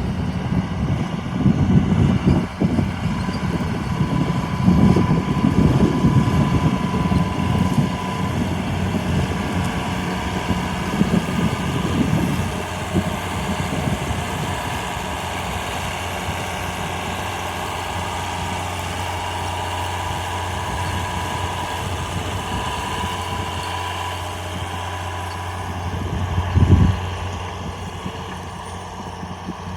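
John Deere 4955 tractor's diesel engine running steadily with a constant low hum. An uneven low rumble rides over it in the first half and settles after about thirteen seconds, and there is a single thump near the end.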